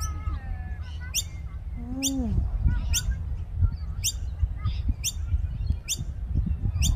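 Bird chirping: a short, sharp, high chirp repeating a little under once a second, with a low falling call about two seconds in, over a steady low rumble.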